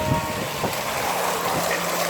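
Steady rush of water pouring from a water-park waterfall feature.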